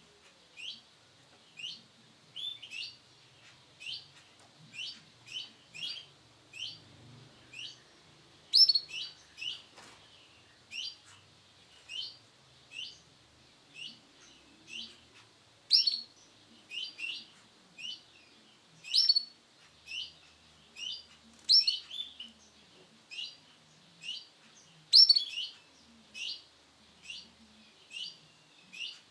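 Male canary giving short, high chirps one after another, about one or two a second, a few of them louder than the rest.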